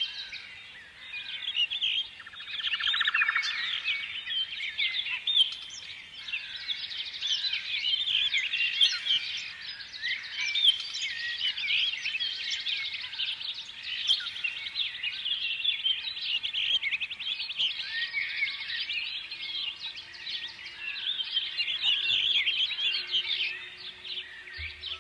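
Many small birds chirping and twittering at once in a continuous, dense chorus of short, high chirps.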